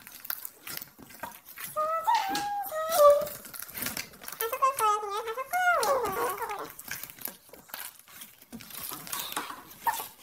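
A voice raised to a chipmunk-like pitch by a helium voice effect, in short squeaky sounds around 2 s and 4.5–6.5 s. Scattered short sticky clicks and squelches of slime being mixed run between them.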